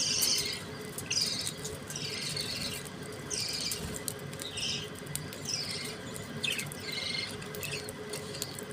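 Budgerigars chirping: short, high, downward-sliding calls about once a second over softer continuous chatter.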